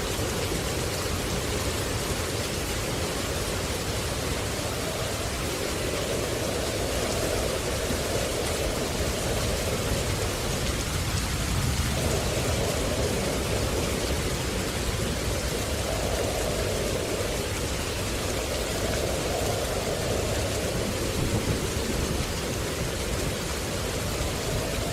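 Steady rain: a dense, even hiss with a lower rushing layer that swells and fades every few seconds. The lower layer breaks off and resumes abruptly about halfway through.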